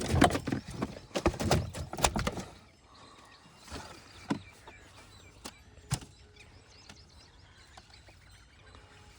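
A dense clatter of sharp knocks and noise for about the first two and a half seconds, then quiet ambience with faint bird chirps and a few isolated clicks.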